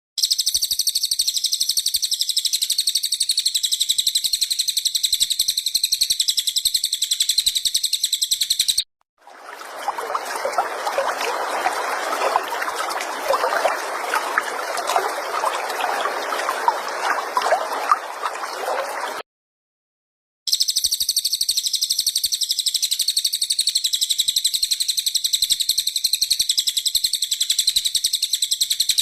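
A songbird's very high, continuous rapid trill, which cuts off abruptly about nine seconds in. About ten seconds of water-like trickling and gurgling follow. After a short silence the same high trill returns.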